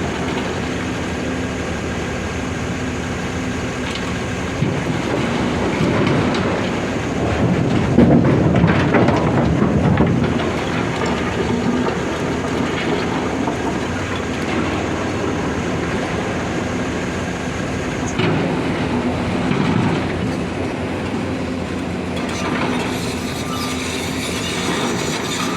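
Volvo excavator's diesel engine running steadily under load, with a louder stretch of rumbling and clatter about six to eleven seconds in, as boulders are loaded into the steel body of an Ashok Leyland tipper truck.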